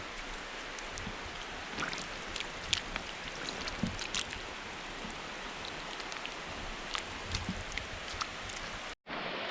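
Barefoot walking along a weedy, sandy trail: a steady rustling hiss dotted with small ticks and crackles of grit, stems and leaves. It drops out abruptly for an instant near the end.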